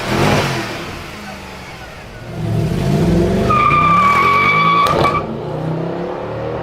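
A car engine revving and accelerating, its pitch rising and falling. About three and a half seconds in, a steady high squeal starts and holds for about a second and a half, with a sharp click just before it stops.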